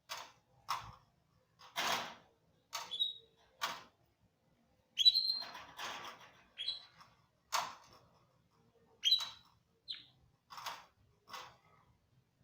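Domestic canary giving a series of short, separate chirps and calls with pauses between them. Some carry a clear high whistled note, and the loudest comes about five seconds in.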